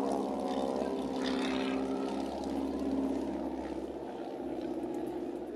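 Aircraft flying past: a steady pitched engine drone that sags slightly in pitch and fades away toward the end.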